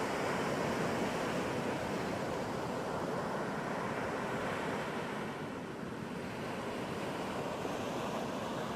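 Ocean surf: a steady wash of breaking waves that eases slightly a little past the middle, then builds again.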